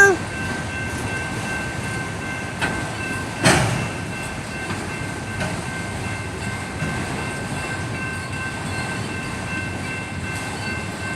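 Slow-moving freight train rolling past a road crossing: a steady rumble of rail cars on the track, with a steady high-pitched tone running through it. A single sharp clank comes about three and a half seconds in.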